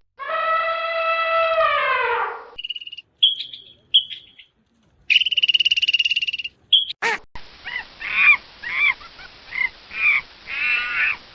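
A run of different animal calls one after another: a long pitched call that falls away at its end, then a few short high chirps, a buzzing trill of about a second and a half, and a string of short chirping calls.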